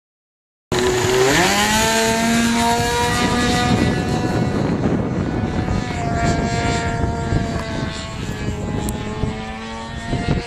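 Radio-controlled model aircraft's motor running at high power, its pitch rising sharply at first and then holding fairly steady with small dips, over heavy wind rumble on the microphone.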